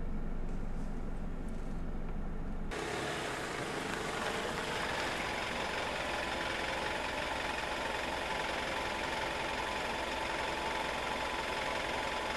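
Mercedes-Benz GLC SUV's engine running steadily. It starts as a low hum heard inside the cabin. A few seconds in it changes abruptly to the engine idling close by outside, with a steady, hissy running noise.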